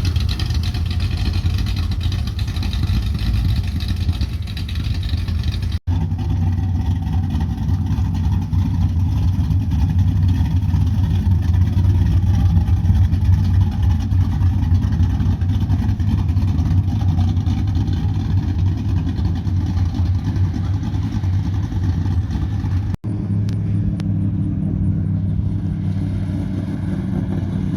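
A truck's engine running loudly and steadily. It cuts out abruptly twice, and after the second break the engine note changes.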